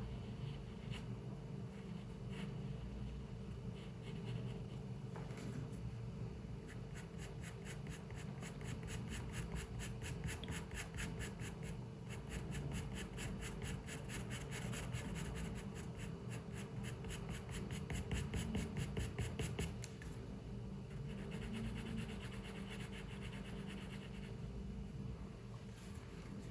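Pencil scratching on paper in rapid, even back-and-forth strokes, about five a second, in a long run that stops about twenty seconds in and starts again briefly soon after. A steady low room hum lies underneath.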